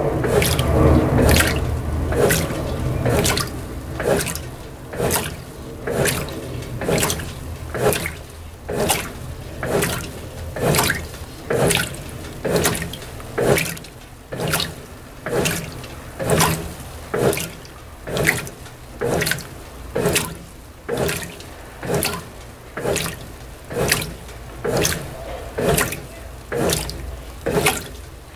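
Brastemp BWT12 top-loading washing machine in its gentle delicate-profile agitation: water and clothes slosh in even swishes, a little more than one a second, as the wash action reverses back and forth.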